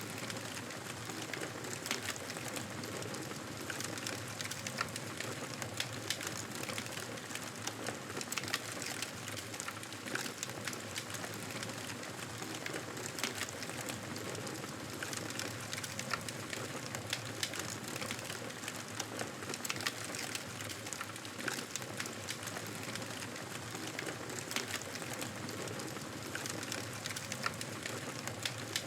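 Wood fire crackling steadily: a continuous soft hiss with many small sharp pops and snaps scattered throughout.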